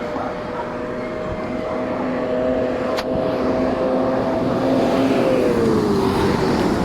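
A motor vehicle's engine running with a steady hum that drops in pitch a little past five seconds in, like a vehicle going by, with one sharp click about three seconds in.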